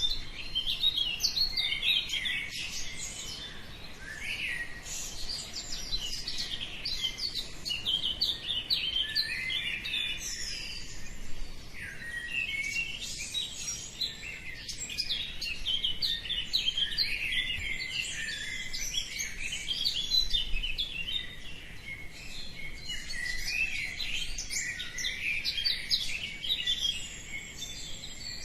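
Many birds chirping and singing at once, a dense dawn chorus of overlapping quick chirps and trills that swells and eases every few seconds.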